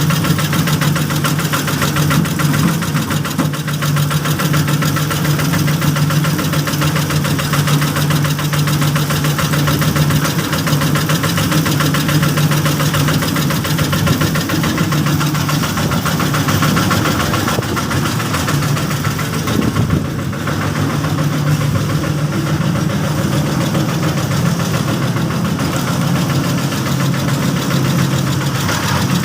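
A small engine on a bored-pile rig running steadily at constant speed, with a fast even knock.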